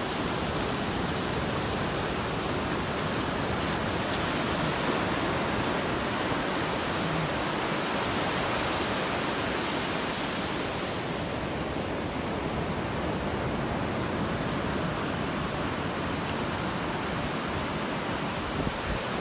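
Steady rush of ocean surf on a sandy beach, mixed with wind on the microphone.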